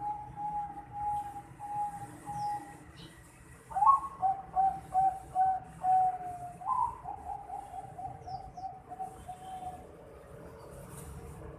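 Young zebra dove (Bangkok-strain perkutut, about 4.5 months old) cooing: a run of short, even notes, then after a brief pause about four seconds in, a louder quick string of notes that twice opens with a rising note and fades out near the end.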